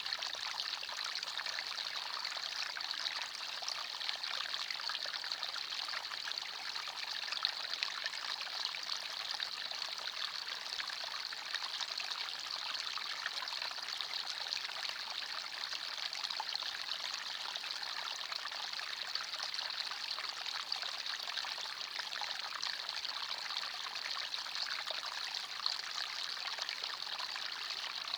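Small forest stream flowing and trickling over stones, a steady babbling splash with little low end.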